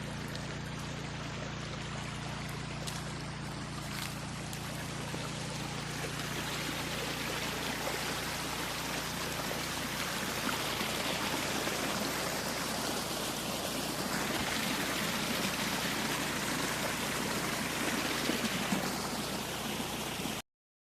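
Water gushing steadily from the outlet of a petrol-engine water pump, with the small petrol engine running at a steady speed underneath. It cuts off suddenly near the end.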